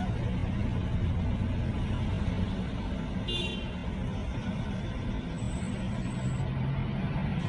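Car driving, with steady engine and road rumble and a short high beep about three seconds in.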